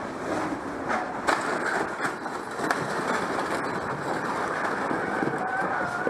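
Steady vehicle running noise with a few sharp clicks, and near the end a high, slowly falling tone that may be a siren.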